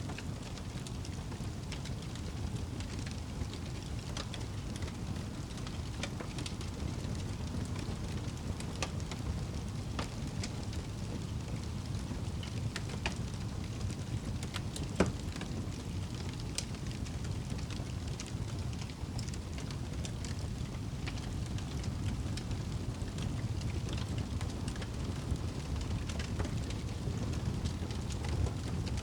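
Wood fire burning in a fireplace: a steady low rumble of flames with scattered crackles and pops, one louder pop about halfway through.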